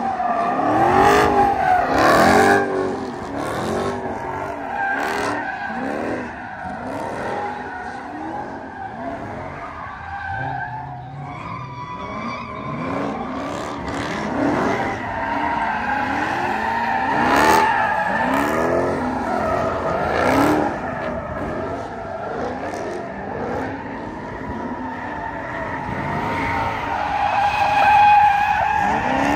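A car doing donuts: its engine revs up and down again and again while the tires squeal and skid on the pavement.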